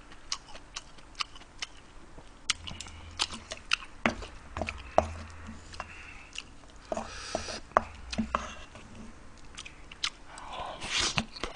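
Close-miked chewing and lip-smacking on mouthfuls of vegetable bibimbap, with scattered sharp clicks of a wooden spoon scooping rice from a stainless steel mixing bowl.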